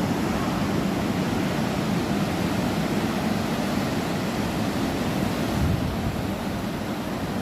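Sea surf washing on a beach: a steady, continuous rush of waves.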